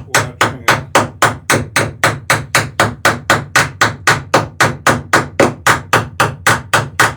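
Hammer peening rivets on a wooden dory's sheer strake: a steady, even run of sharp blows, about three a second.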